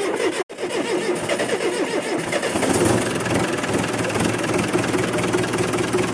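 Ashok Leyland four-cylinder diesel engine just started and running, briefly louder around three seconds in before settling to a steady run.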